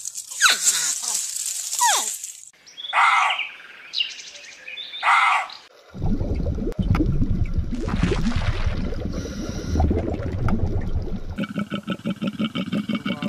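A string of animal sounds: high, quickly falling bird chirps, two short noisy bursts, then a low underwater rumble. Near the end a koala's fast pulsed, grunting bellow begins.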